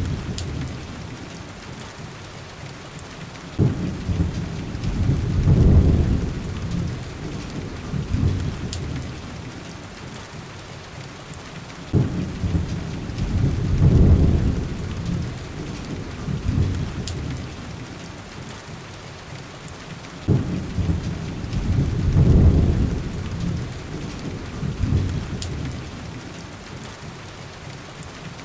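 Heavy rain against window glass, with thunder rolling three times, about eight seconds apart. Each peal starts suddenly and swells into a deep rumble before fading back under the rain.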